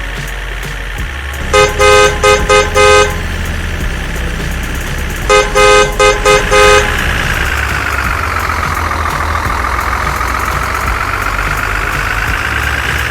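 A vehicle horn honks in two bursts of several toots, a few seconds apart. It is followed by a siren tone that slowly falls and then rises in pitch.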